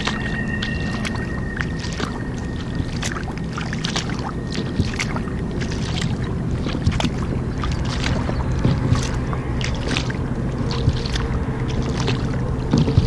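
Kayak paddle strokes splashing and dripping in river water, many small irregular splashes over a steady low hum.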